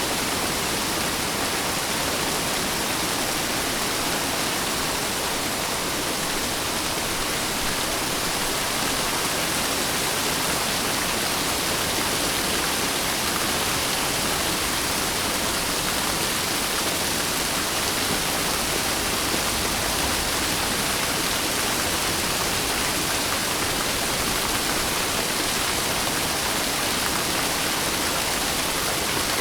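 Steady heavy rain, an even hiss with no thunder or distinct drops standing out.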